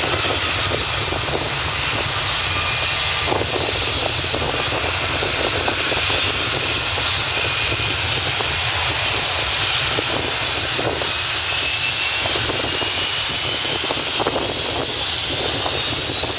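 McDonnell Douglas MD-90 airliner's twin IAE V2500 turbofans at full takeoff power: a loud, steady jet roar with faint whining tones riding high above it.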